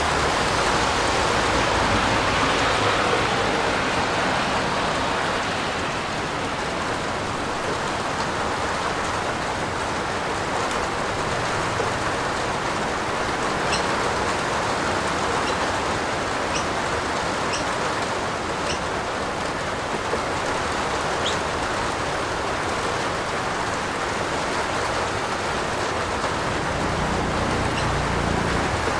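Heavy rain falling steadily, a dense even hiss with a few sharp drip ticks in the middle and a low rumble swelling near the end.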